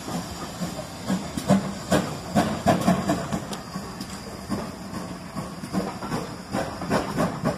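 Railway carriages rolling past at close range, their wheels knocking irregularly over the rail joints, over a steady hiss.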